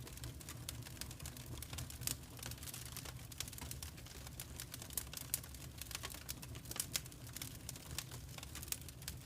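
Fire in a fireplace crackling: irregular sharp snaps and pops, a few louder than the rest, over a low steady rumble.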